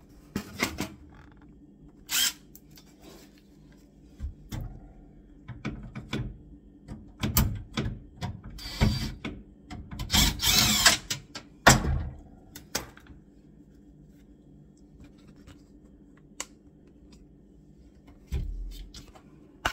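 Hands and tools working at kitchen units and worktop screws: scattered knocks, clicks and thunks, with two rattling, scraping bursts about a second long near the middle and a dull thud near the end.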